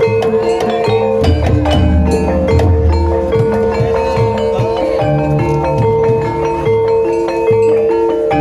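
Javanese gamelan music accompanying an ebeg (kuda lumping) dance. Mallet-struck metallophones play a repeating melody over held ringing tones and low drum strokes.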